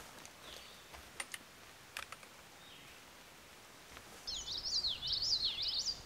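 A songbird singing a fast, jumbled high warble of quick rising and falling notes for about two seconds near the end, after a few faint ticks.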